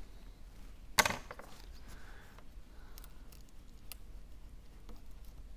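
A sharp click about a second in, then faint scattered ticks of a small tool against the phone's parts, over a low steady hum.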